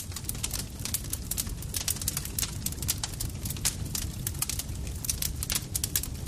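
Campfire crackling: frequent, irregular sharp snaps and pops from burning wood over a steady low rumble of the flames.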